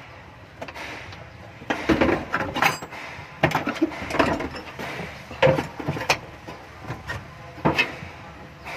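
Irregular knocks, clicks and clatter of hard parts and tools being handled, with one brief metallic ring about two and a half seconds in.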